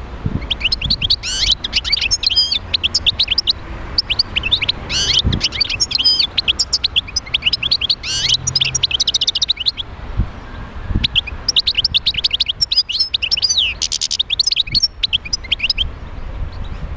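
European goldfinch singing: a fast, tinkling, twittering song in three long phrases with short pauses between them. A couple of dull low thumps are also heard.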